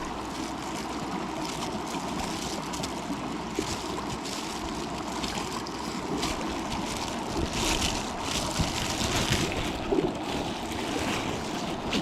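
Steady rush of flowing stream water, with brief louder hissy swells a little past the middle.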